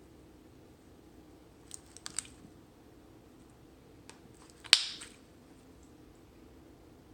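Crunchy slime being handled: a few small crackling clicks about two seconds in, then one loud sharp pop a little before five seconds in as an air bubble in the slime bursts.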